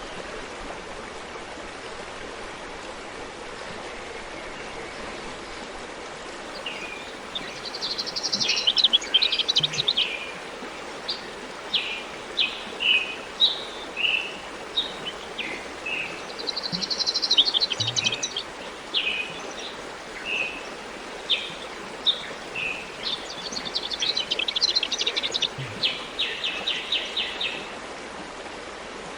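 Forest stream running steadily, with a songbird singing over it: three bouts of rapid, high trilled song about eight, seventeen and twenty-five seconds in, and scattered short chirps between them.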